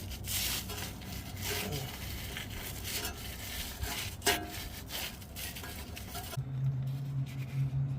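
Hands rubbing and scraping as an epoxy-smeared screen-tape patch is pressed and wrapped around a rusty exhaust pipe, with a sharp knock a little after four seconds in. A steady low hum comes in about six and a half seconds in.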